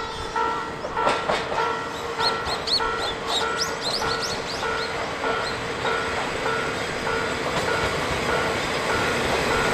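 Japanese level-crossing warning bell ringing steadily, about two strokes a second, as the C12 66 steam locomotive and its train draw near. The train's running noise grows louder toward the end, with a flurry of high squeals in the first few seconds.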